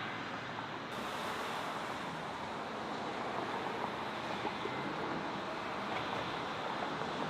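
Steady rushing noise of a jet airliner's engines at an airport, with wind on the microphone.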